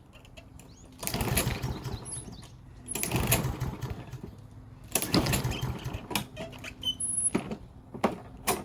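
Walk-behind lawn mower's recoil starter pulled three times, about two seconds apart, the engine cranking briefly on each pull without catching. This is typical of a mower left with old, stale gas. A few sharp clicks follow near the end.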